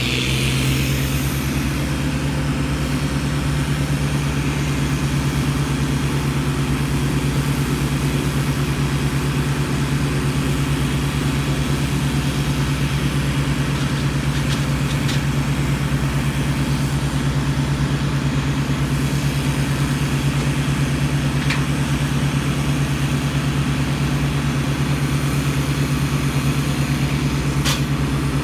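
A tree crew's heavy engine runs steadily at a constant high speed, a loud even drone, with a few faint sharp ticks through the middle and near the end.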